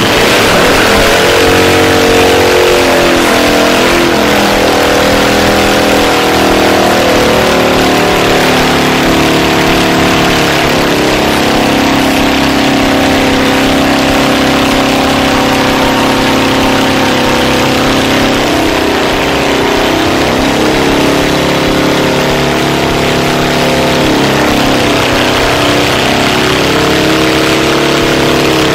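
Motorcycle engine running loudly and being revved, its pitch climbing and holding, then dropping and rising again a few times.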